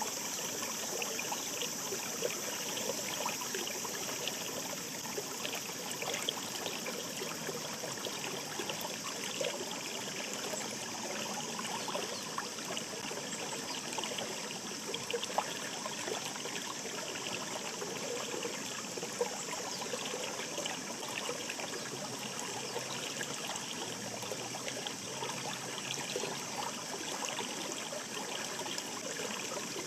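Shallow mountain stream babbling over rocks: a steady rush of water with many small crisp splashes and trickles.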